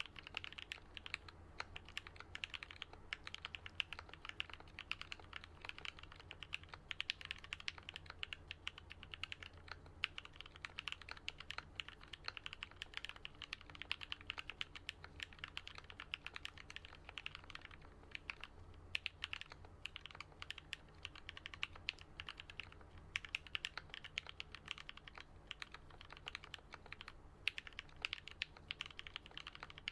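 Continuous fast typing on a Switch Couture Alice-layout custom mechanical keyboard with lubed, filmed Gat Yellow linear switches and BoW keycaps, a dense run of keystroke clacks with a couple of short pauses.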